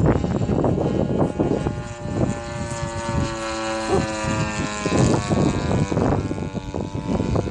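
Single-cylinder two-stroke gasoline engine (EME 35cc) of an RC aerobatic plane droning in flight, its pitch shifting slightly as the plane moves around the field. Wind rumbles on the microphone underneath.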